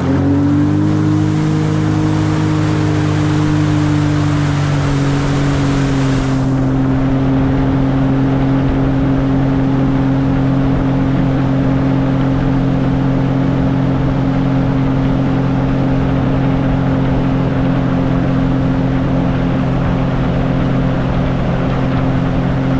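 An engine revs up and then runs at a steady pitch, easing slightly lower about five seconds in. A hiss over it stops suddenly about six seconds in.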